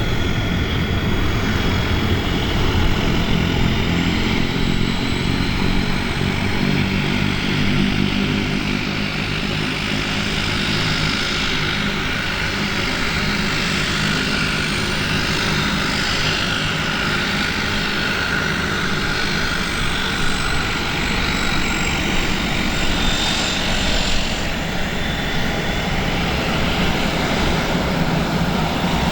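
Embraer 120 Brasilia's two Pratt & Whitney Canada PW118 turboprop engines running steadily: a propeller drone under a high turbine whine that slowly drifts in pitch.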